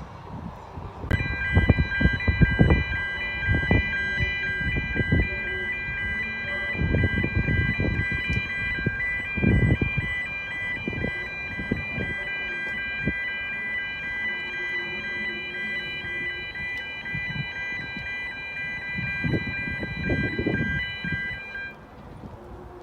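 Level crossing warning alarm sounding steadily as a high multi-tone note, starting about a second in and cutting off shortly before the end, with irregular low rumbles underneath.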